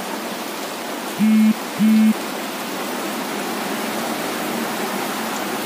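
Heavy rain pouring down steadily on a flooded car park. About a second in, two short honks from a car horn, half a second apart, cut through the rain.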